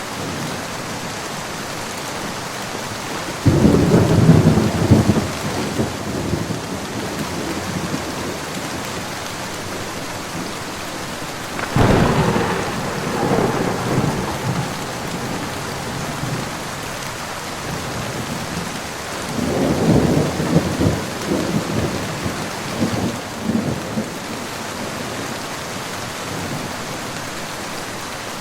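Steady rain falling, with three rolls of thunder: a sudden clap about three seconds in, a sharper crack near the middle, and another rumble about two-thirds of the way through, each rumbling on for a few seconds before fading into the rain.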